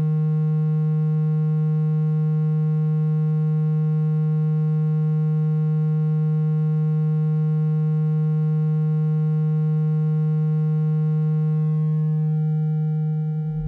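A steady low electronic tone, a pitch near 160 Hz with faint overtones, played as a water-ejection sound to vibrate water out of a phone speaker. Its upper overtones drop away near the end.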